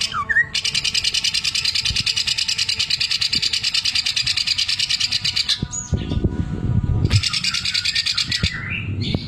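Cucak ijo (greater green leafbird) singing its 'mesin jahit' sewing-machine song: a fast, even, high-pitched rattle of rapidly repeated notes lasting about five seconds. A second, shorter rattle follows about two seconds later.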